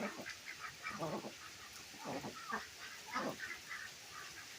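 Domestic ducks quacking, about four strong quacks roughly a second apart with softer short calls between them, over a steady hiss of falling rain.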